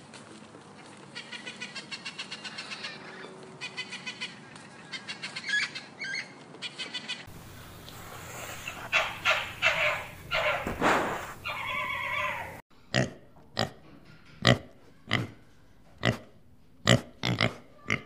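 A sequence of animal calls. A male eclectus parrot gives rapid, rhythmic chattering calls, then a fennec fox gives several high calls, one of them drawn out. Last, a pig grunts in short, evenly spaced grunts, about one or two a second.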